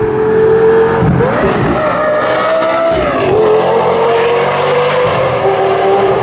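Lamborghini Gallardo V10 running hard through a tunnel, its engine note dropping and climbing again twice as it revs, then settling lower as it passes.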